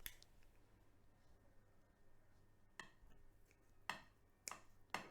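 A few light clicks and clinks of utensils against a plate, four separate taps in the second half, against a quiet background.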